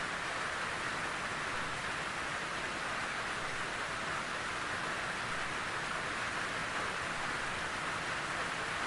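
Steady rainfall: an even, unbroken hiss of rain with no separate drops standing out.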